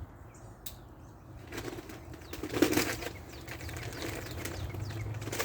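Bag of potting soil rustling and crinkling as it is handled, starting about a second and a half in, loudest near the middle.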